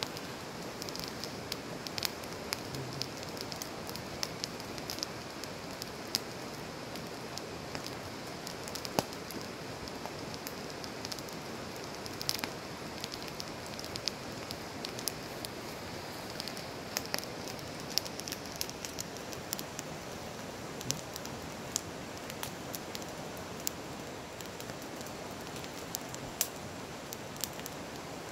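Firewood campfire burning: a steady hiss with irregular, scattered sharp crackles from the burning logs.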